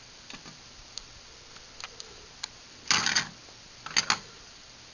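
Small hard plastic objects, garage door opener remotes, being handled. Faint clicks come first, then two louder short clatters about three and four seconds in.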